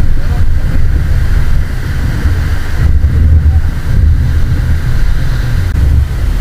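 Wind buffeting the microphone in a loud, uneven low rumble, over the wash of heavy surf.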